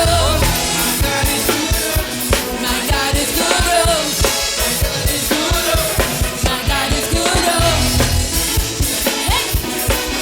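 Live worship band music led by a drum kit keeping a steady beat, with bass and other instruments, in an instrumental passage between sung lines.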